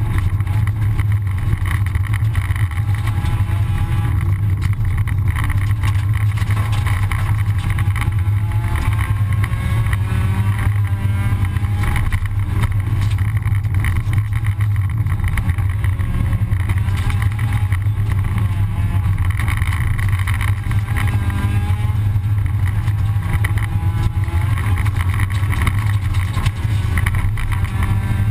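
Rally car's engine running hard under throttle, heard from inside the cockpit, its pitch climbing and dropping again and again with gear changes, over a steady rumble from the gravel road.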